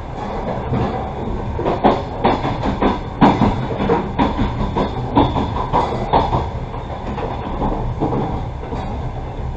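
Passenger train carriage rolling along the track, heard from inside: a steady low rumble, with a run of irregular clanks and knocks from the wheels over the track in the middle.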